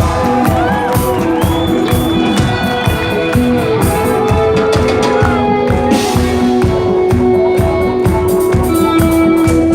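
Progressive metal band playing live and loud: a steady drum beat under long held notes that step from pitch to pitch, with a faint crowd behind.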